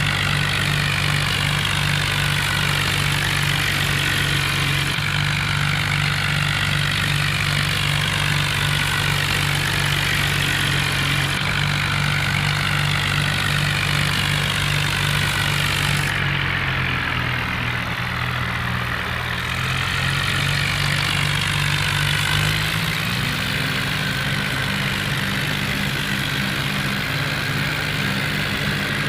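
Tractor diesel engine running steadily, its note dipping around the middle and rising again about 23 seconds in.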